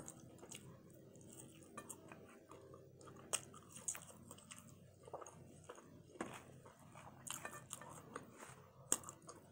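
A person chewing french fries: faint, scattered crunches and small mouth clicks.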